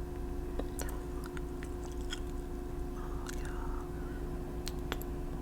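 Faint scattered clicks and a soft scratch of small objects being handled while painting nails, over a steady low hum.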